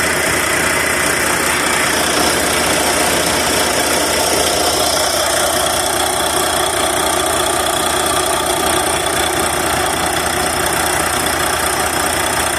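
A semi truck's diesel engine idling steadily, loud and unchanging.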